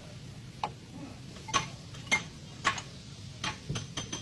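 Sharp metallic clinks of hand tools on car suspension parts during a lower-arm ball joint replacement, about eight irregular knocks roughly half a second apart. Two of them, about one and a half and two seconds in, are the loudest.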